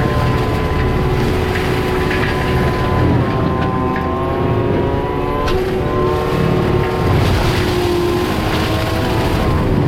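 Skid steer's engine and drum mulcher running steadily under load: a steady mechanical whine whose pitch shifts slightly now and then.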